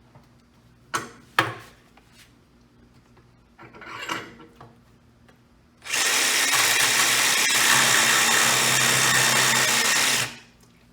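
Jigsaw running and cutting a slot in plastic exterior trim board for about four seconds, starting about six seconds in, after a couple of short knocks.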